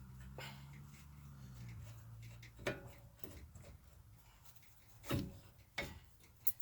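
Tools and metal brake parts being handled: four separate knocks and clinks, the loudest about five seconds in, after a low hum that fades out around two seconds in.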